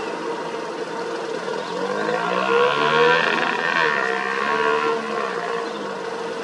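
Steady engine hum of road-paving machinery, with a passing vehicle's engine swelling in the middle and fading near the end.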